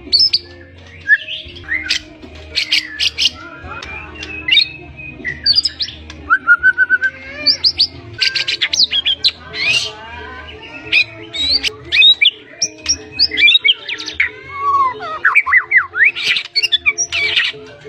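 White-rumped shama singing a fast, varied song of whistled glides, sharp rapid chattering notes and mimicked phrases, with a steady low hum underneath.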